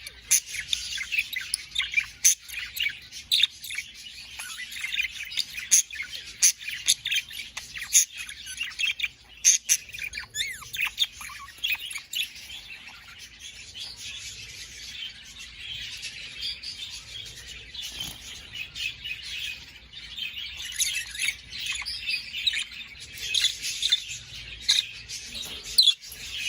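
Budgerigars warbling and chirping nonstop, a busy chatter full of short sharp chirps and clicks with a few gliding notes.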